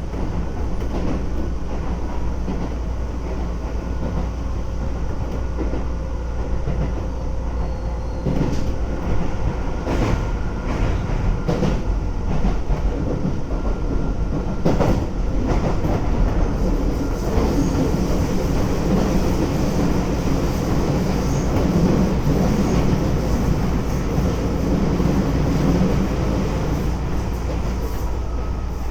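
Keisei 3400 series electric train running at speed, heard from inside the car: a steady rumble of wheels on rails, with a run of clicks over rail joints about a third to halfway through.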